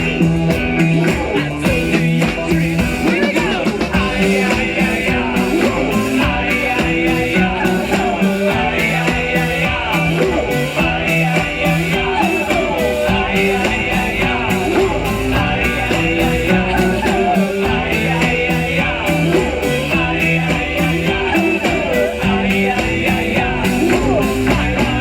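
Live band playing loud rock music with a fast, steady drumbeat.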